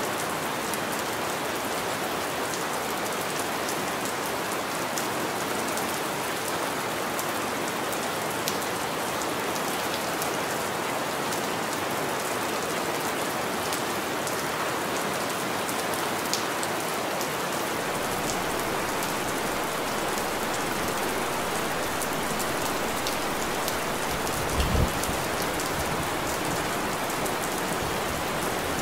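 Steady rain, an even dense hiss with scattered sharp drop ticks. There is a brief low thump about 25 seconds in.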